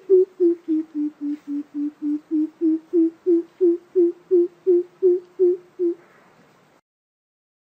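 Coucal (bìm bịp) giving its deep hooting call: a run of about twenty low 'boop' notes, about three and a half a second, dipping slightly in pitch midway and rising again before stopping about six seconds in. It is a call played as a lure to draw other coucals in.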